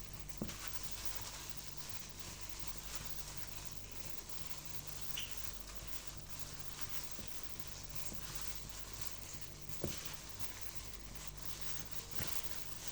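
Soft rustling and scraping with a few light clicks over a steady low hum.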